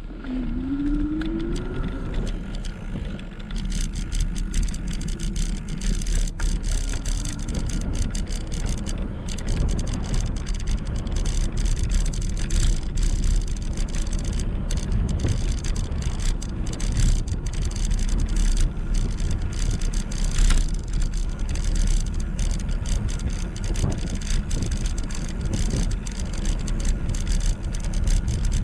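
Steady low rumble of wind and tyre noise on an e-bike under way, with frequent small clicks and rattles. A brief rising whine sounds near the start.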